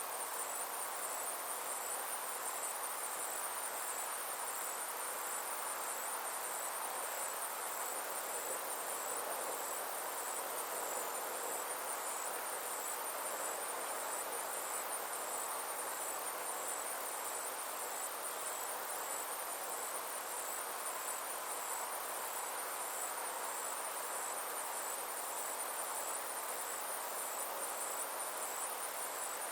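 Steady summer insect chorus: a continuous high trill with fine rapid pulsing, over a soft even hiss.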